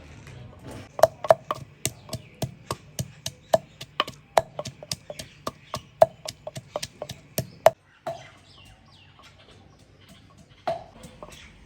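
A knife chopping on a cutting board: sharp, quick strikes at about four a second that stop abruptly about eight seconds in, followed by a few single knocks.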